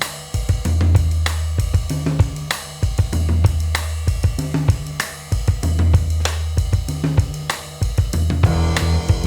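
Instrumental band intro of a rock song: a drum kit with hi-hat, snare and kick, with a cymbal hit about every second and a quarter, over sustained low bass notes.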